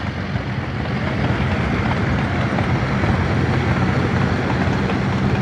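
An engine running steadily at an even idle, a fast, regular low pulsing with a steady hum.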